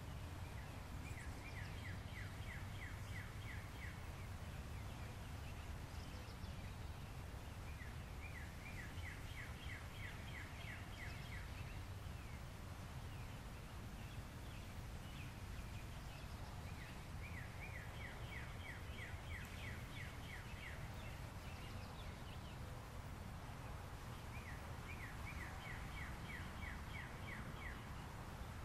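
A songbird singing a quick run of about ten repeated short notes, lasting about two seconds, four times roughly eight seconds apart, over a steady low background rumble.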